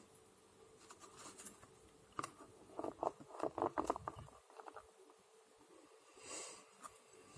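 Tarot cards being handled: a quick run of soft clicks and rustles of cards slid and laid down, then a brief rustle.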